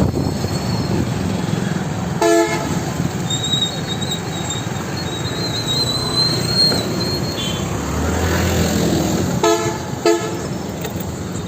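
Car horn honking in short blasts over steady road and traffic noise: once about two seconds in, then twice in quick succession near the end.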